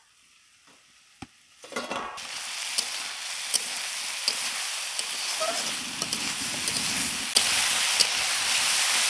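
Shredded bitter gourd and potato sizzling in oil in a kadai while being stirred with a metal spatula. The sizzle starts about two seconds in and runs steadily, with a few short sharp scrapes and taps of the spatula against the pan.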